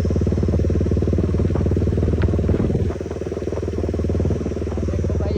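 KTM motorcycle engine with an aftermarket exhaust running, a steady rapid pulsing note; it drops and quietens about three seconds in.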